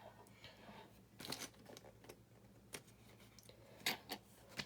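Faint handling of small plastic building bricks: a few scattered light clicks and rustles as pieces are picked out and moved about.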